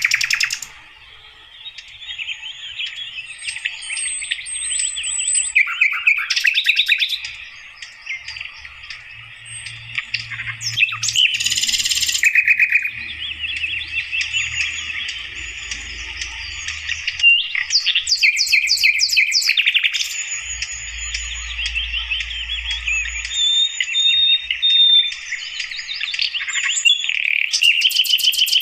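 Sikatan londo flycatcher singing: a long, nearly unbroken stream of rapid twittering phrases, with thin high whistled notes laid over it now and then.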